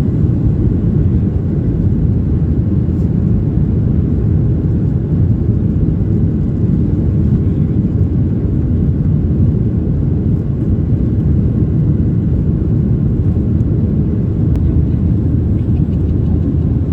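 Steady low rumble inside the cabin of a Boeing 737-800 airliner: the noise of its CFM56-7B jet engines and air rushing along the fuselage, even throughout.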